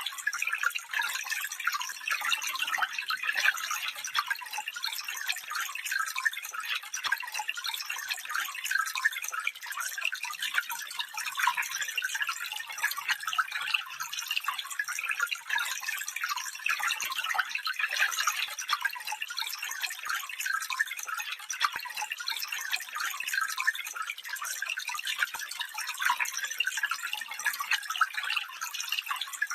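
Shallow stream water running and trickling, a steady burbling with many small splashes and no deep rumble.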